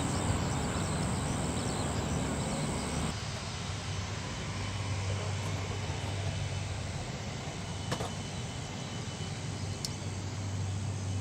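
Steady jet airliner engine noise. About three seconds in the hiss drops away and a low steady hum comes in.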